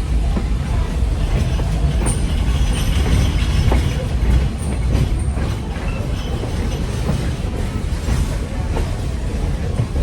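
Passenger train running on the rails: a steady low rumble of wheels on track, with a few brief, faint, high-pitched wheel squeals partway through.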